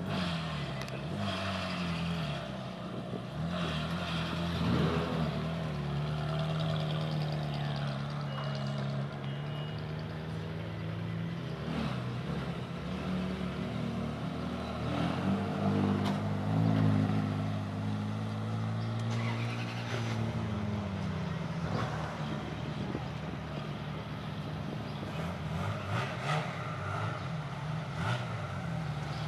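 Car engine running at low revs, its pitch rising and falling slowly as the revs change.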